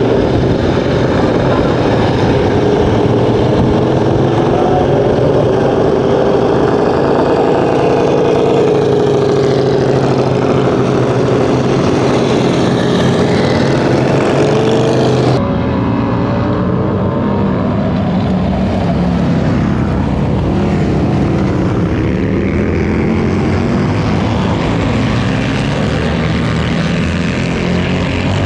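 Motorcycle engines running loudly, their pitch rising and falling as they rev. The sound changes abruptly about fifteen seconds in, and after the change it is a little quieter.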